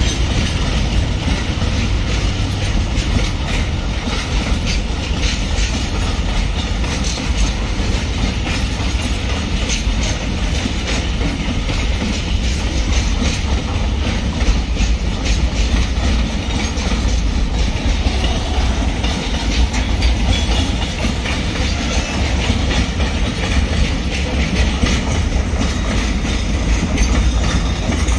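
Freight train's container flat wagons rolling past, a steady heavy rumble of steel wheels on rail with frequent clacks over the rail joints.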